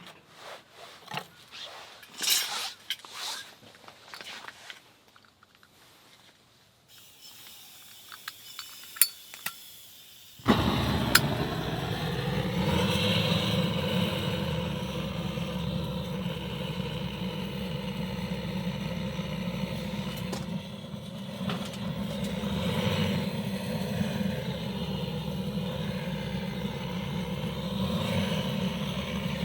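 Light clinks and handling noises, then about a third of the way in a loud, steady, engine-like drone with a low hum starts abruptly and carries on unchanged.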